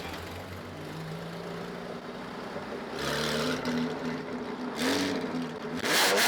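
A car engine running with a steady low hum, then louder rushing surges from about halfway through, the loudest near the end.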